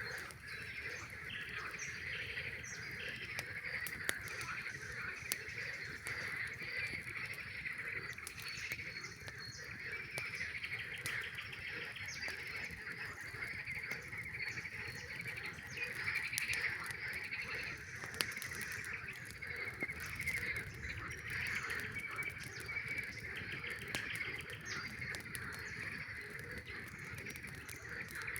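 A dense chorus of frogs calling over one another without a break, with a campfire crackling now and then.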